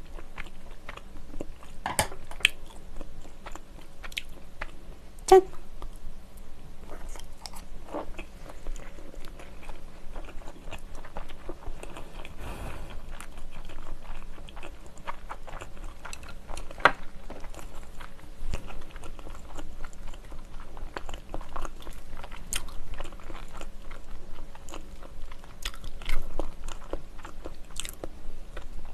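Close-miked chewing of white-fish nigiri sushi: soft, wet mouth sounds of raw fish and vinegared rice, full of small clicks, with a few sharper clicks now and then.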